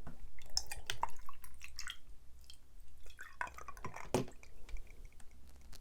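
Close-miked mouth sounds of biting into and chewing soft, sticky glutinous rice cakes: a run of short wet clicks and smacks, bunched in two clusters.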